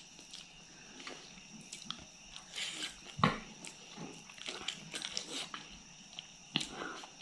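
Close-up mouth sounds of eating by hand: wet chewing and lip smacks in an irregular run, with one louder smack about three seconds in.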